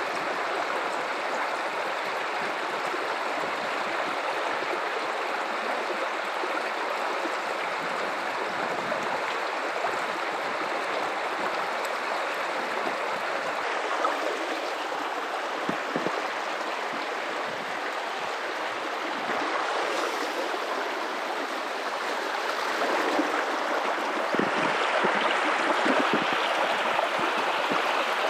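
Guadalupe River running water in a steady rush, growing a little louder about two-thirds of the way in, with a few brief splashy ticks.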